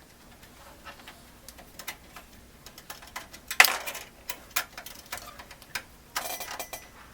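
Small clicks, taps and light metallic rattles of computer case parts and screws being handled, with a louder scrape about three and a half seconds in and a brief rustle near the end.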